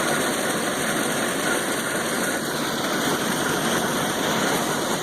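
Combine engine running steadily, driving a centrifugal mud pump.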